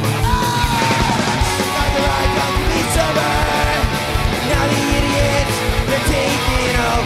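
Punk rock band playing live: distorted electric guitars and bass over a fast, steady drum beat, with a bending lead melody line, in the instrumental opening of a song.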